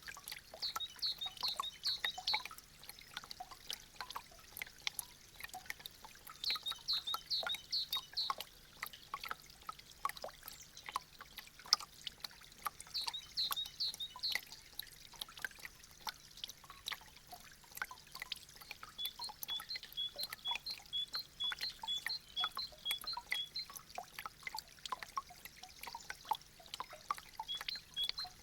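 Meltwater dripping and trickling from melting icicles: many irregular drips of different pitch, some sharp and close, over a light trickle. Short high chirps come in brief clusters in the first half, then settle into a steady series of about two notes a second near the end.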